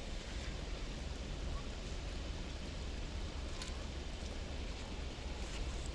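Steady outdoor background hiss with a low rumble, broken by a faint tick about three and a half seconds in.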